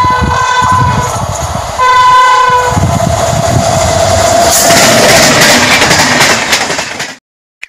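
WAP-7 electric locomotive sounding its horn in two blasts as it approaches at speed, then a lower horn note as it reaches the camera. The Rajdhani's coaches follow with a loud rushing and rattling of wheels over the track, which cuts off abruptly near the end.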